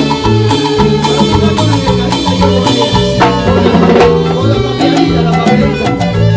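Live tropical cumbia band playing an instrumental passage between sung lines: a repeating bass line, drums and percussion on a steady beat, and a bright melodic lead.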